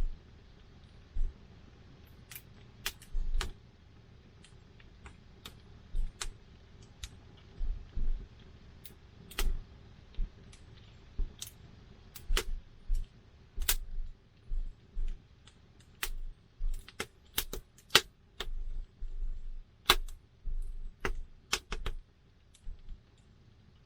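Wood campfire crackling: sharp, irregular pops and snaps, few at first and coming thick and fast in the second half, over a faint low rumble.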